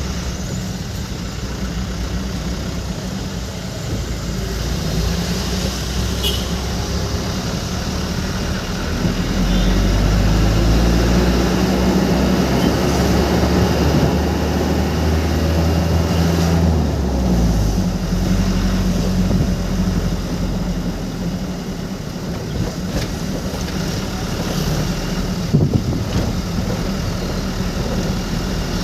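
A vehicle engine running with road noise while driving, the engine growing louder and heavier from about ten seconds in until about seventeen seconds, then settling back.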